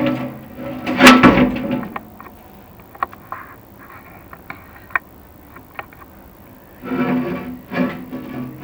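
Chimney inspection camera scraping and knocking its way down a clay flue liner, each bump making the tile ring. The loudest knock comes about a second in, small ticks follow, and another run of scraping comes near the end.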